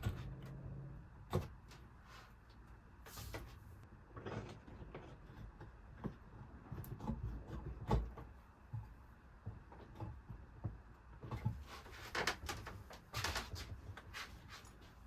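Irregular knocks, clicks and light scrapes of tools and materials being handled at a workbench, coming more often near the end.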